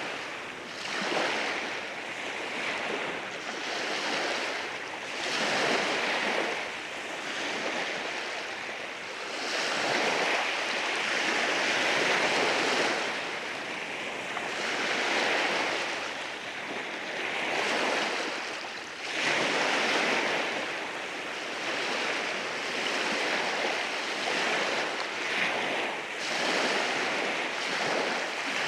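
Waves washing in over rocks on a rocky shore, a continuous hiss of surf that swells and eases every few seconds.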